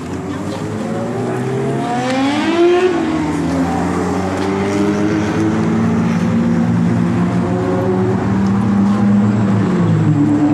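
Car engine accelerating, its pitch climbing about two seconds in, then running steadily at speed.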